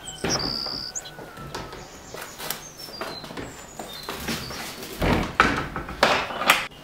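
Small birds chirping in short high notes. Near the end come a few louder scraping knocks, the loudest sounds here.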